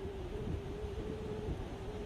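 Wind buffeting the microphone, an uneven low rumble, with a steady faint hum underneath.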